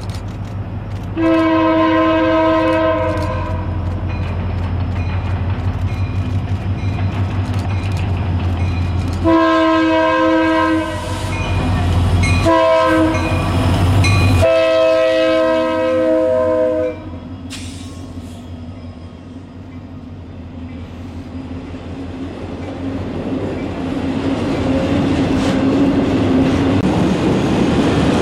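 Diesel freight locomotive's multi-note air horn blowing over the engine's steady low rumble: one long blast, then after a pause a longer run of blasts that ends partway through. Then the autorack cars roll past with a steadily rising clatter and rumble of wheels on rail.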